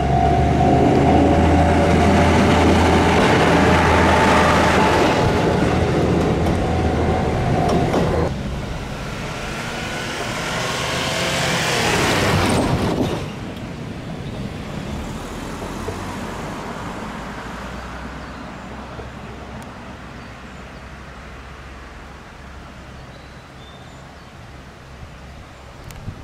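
Diesel railcar passing close by on the line. Its engine drone and wheel noise are loud for about eight seconds, then drop; a second rush of rail noise builds and stops about halfway through, and the train fades into the distance.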